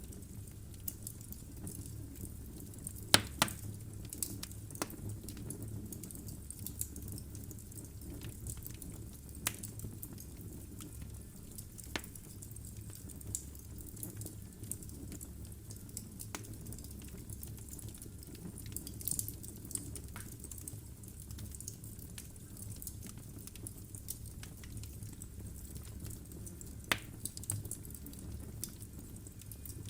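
Wood logs burning in a fireplace: scattered sharp crackles and pops over a steady low rumble of the flames. The loudest pops come about three seconds in and again near the end.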